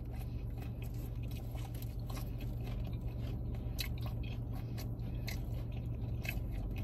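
Close-up chewing and biting of a fast-food burger and chicken sandwich, with many small wet mouth clicks, over a steady low hum.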